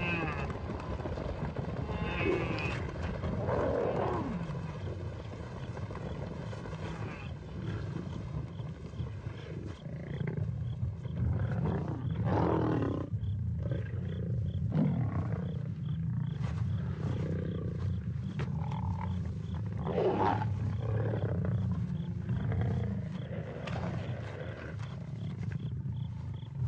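Lions growling and snarling over a wildebeest kill: a continuous low growl, with louder snarls breaking out every few seconds.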